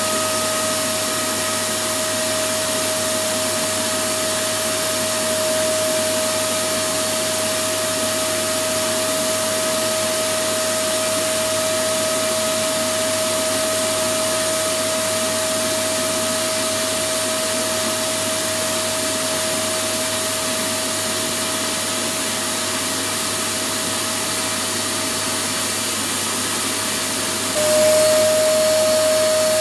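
Electric vacuum cleaner running continuously: an even rushing noise with a steady motor whine over it. Shortly before the end the whine drops slightly in pitch and the sound gets a little louder.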